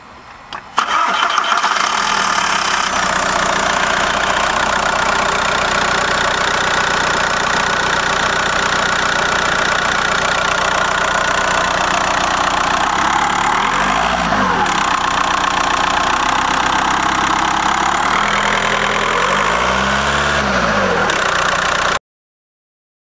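A VW Jetta 1.9 TDI four-cylinder turbodiesel engine starts up about half a second in and then runs loud and steady, its pitch rising and falling briefly twice. It is the noise the owner worries may mean wrong valve timing after a home timing belt replacement, or may be normal.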